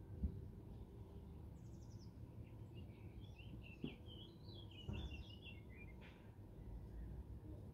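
A songbird sings a short phrase of chirping notes starting about two seconds in, with a couple of fainter high trills from another bird, over a steady low outdoor rumble. A single sharp tap sounds right at the start.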